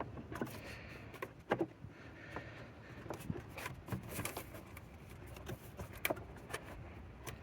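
Scattered light clicks and scrapes of the old engine air filter being worked out of the tight plastic airbox housing by hand.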